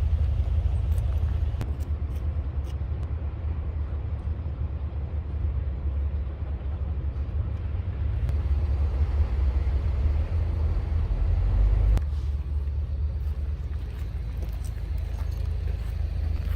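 Military helicopter in flight: a steady, heavy low rumble of engines and rotor, shifting slightly about twelve seconds in.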